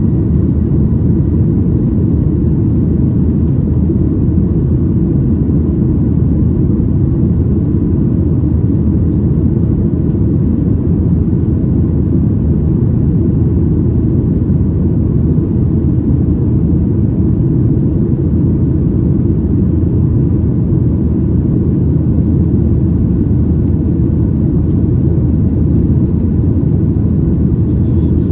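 Steady cabin noise inside a Boeing 737-900ER airliner: the rumble of its CFM56-7B turbofans and the airflow over the fuselage, with faint steady whining tones above it, holding even throughout.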